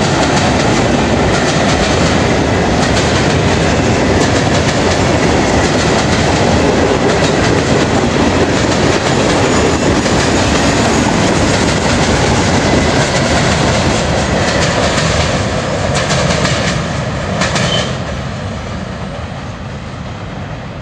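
CSX freight train of covered hopper cars rolling past close by: a steady rolling rumble with the wheels clacking over rail joints. Near the end the last cars pass and the sound fades as the train draws away.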